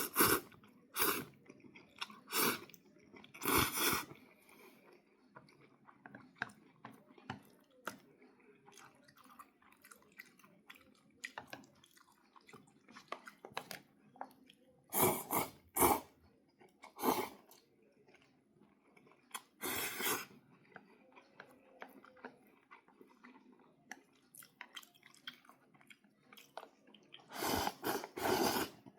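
A person chewing a mouthful of pasta, with short, louder eating sounds at irregular intervals of a few seconds.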